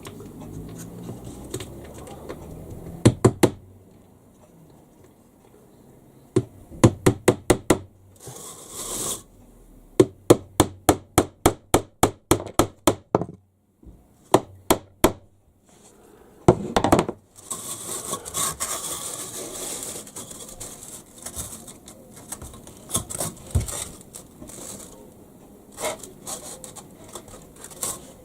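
Hammer tapping nails into wood in quick runs of strikes, about three or four a second, with short pauses between the runs and one heavier blow near the middle. Afterwards comes a stretch of rubbing and scraping as the wood is handled.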